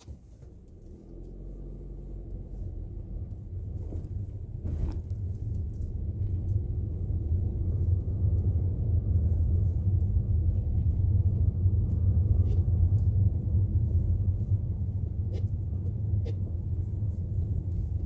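Kia Seltos gasoline car with a dual-clutch gearbox pulling away, heard from inside the cabin: a low engine and road rumble that grows louder over the first several seconds and then holds steady at cruising speed.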